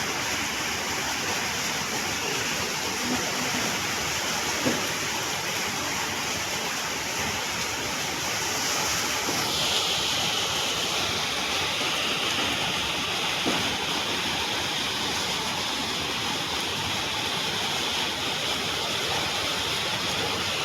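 Heavy rain pouring down: a steady, dense hiss with a few faint taps.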